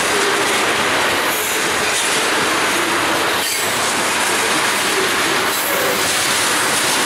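Freight train of ethanol tank cars rolling past: a steady, loud rumble of steel wheels on rail with faint, intermittent wheel squeal and a sharp click about halfway through.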